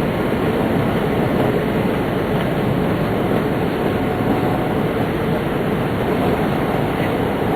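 Tōhoku Shinkansen Hayate train running at speed, heard from inside the passenger car: a steady rumble of wheels and running noise with no distinct clicks or changes.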